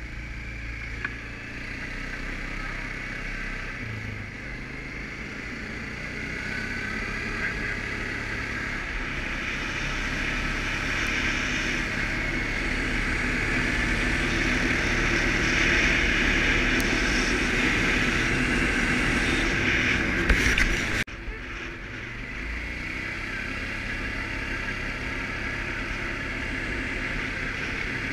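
Suzuki KingQuad ATV's single-cylinder engine running under way with a rushing noise, growing steadily louder over about twenty seconds, then cut off abruptly about 21 seconds in before carrying on more quietly.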